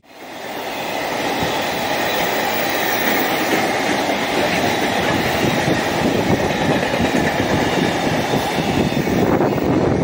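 Meitetsu Nagoya Main Line electric train running on the track: a loud, steady rumble of steel wheels on rail with a rapid clatter. It sets in abruptly and holds steady after about a second.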